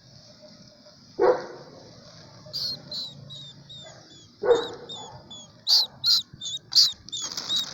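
A dog barks twice, about a second in and again around four and a half seconds in. From the middle on, a quick run of short, high, falling chirps and squeaks grows louder and thicker toward the end, over a steady high hiss.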